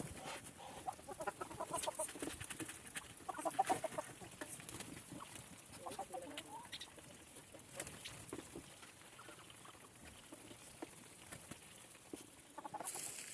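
Chickens clucking in short runs of calls about a second in, near four seconds and again near six, with small scattered clicks and taps between; quieter in the later part.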